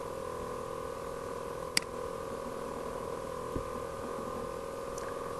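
Steady electrical hum, with one sharp click about two seconds in.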